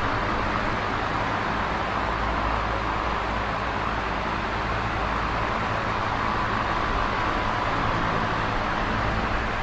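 Electric fan running steadily: an even rush of moving air with a low motor hum beneath it.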